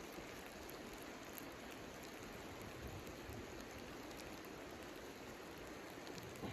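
Steady hiss of falling rain, with faint scattered ticks of drops.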